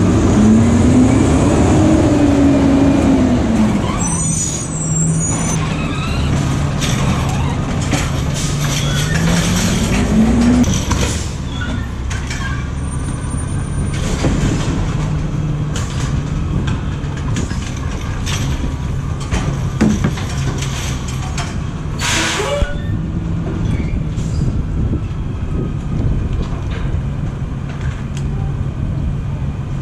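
Diesel recycling truck engine running steadily, its revs rising and falling twice in the first ten seconds, with a short air hiss about 22 seconds in.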